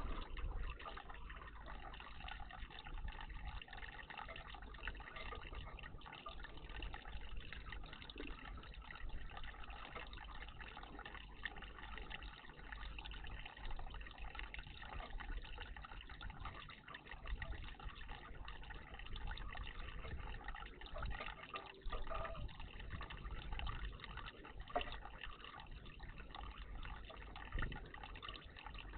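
Water splashing and trickling steadily in a bird bath, over a low rumble.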